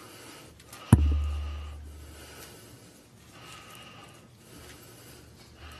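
A single sharp knock about a second in, with a boomy low thud fading over about a second, like something bumped against a pulpit microphone. Otherwise faint room tone.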